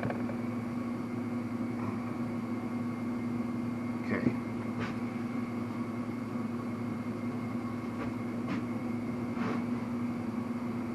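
Steady mechanical hum of a machine running in the workshop, with a few light clicks and taps of small engine parts being handled during piston fitting.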